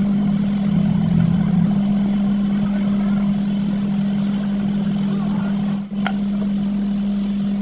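A motor running with a steady low drone, briefly dropping out about six seconds in.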